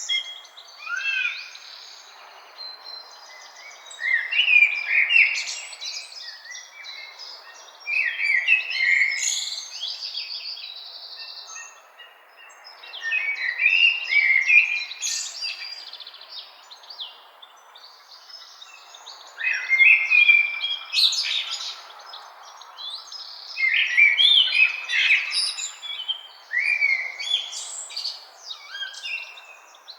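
Songbirds singing in short bright phrases of a couple of seconds, starting again every few seconds, over a faint steady hiss.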